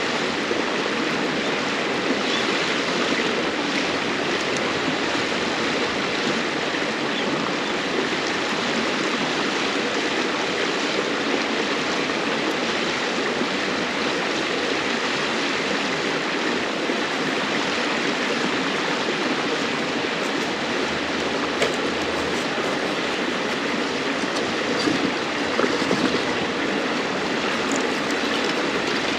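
River water flowing steadily, an even rushing murmur, with a few faint crackles from a wood campfire, the clearest about three-quarters of the way through.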